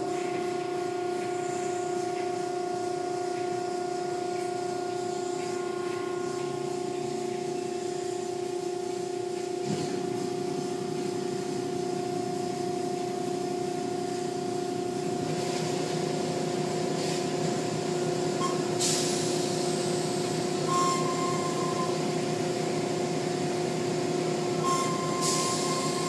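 Car wash machinery starts up suddenly and runs steadily, a motor hum holding one pitch over a wash of noise, with a few short sprays or hisses near the end.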